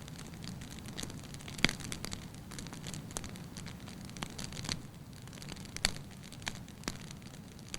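Firewood burning in a fireplace: a soft steady hiss and rumble of flames with light irregular crackles and pops, the sharpest about two seconds in and near six seconds.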